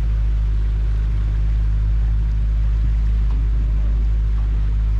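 Motorboat engine running at a steady pace, a constant low drone with a faint hiss of water and air over it.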